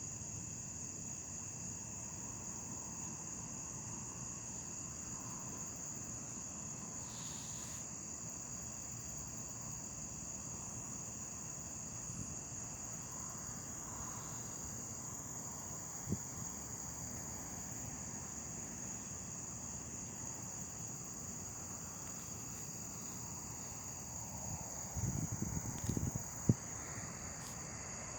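Night insect chorus: crickets trilling in a steady, high-pitched drone that never lets up. A few low knocks and bumps come near the end.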